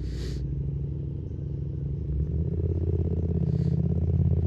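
Yamaha MT-07's 689 cc parallel-twin engine running under way, growing louder from about two seconds in, with a short hiss near the start.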